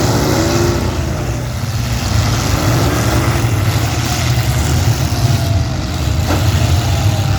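Several demolition derby cars' engines running loudly, revving up and down, with a single sharp knock a little over six seconds in.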